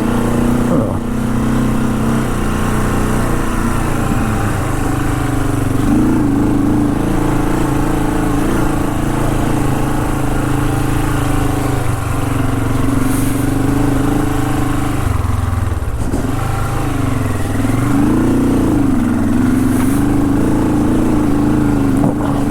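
Classic Honda CL450's parallel-twin engine running under load on a rough trail. The revs rise and fall unevenly, with a noticeable dip and pick-up about two-thirds of the way through.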